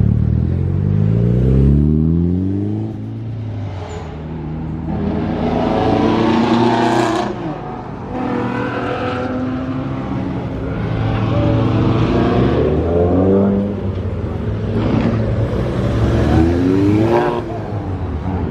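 Car engines revving and accelerating as several cars drive past, their pitch rising and falling repeatedly, with one sharp climb in revs near the end.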